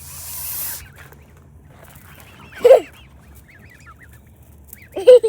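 An adult goose hissing defensively, then two loud honks about two and a half seconds apart, with faint peeping from the young birds in between.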